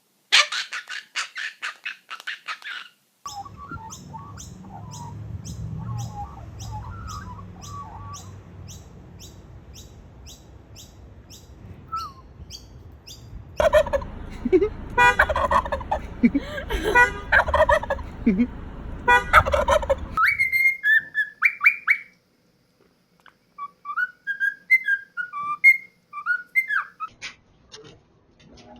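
Birds calling in several short clips: rapid pulsing calls at the start, then regular clicking with soft chirps, a loud run of repeated calls in the middle, and short whistled chirps near the end.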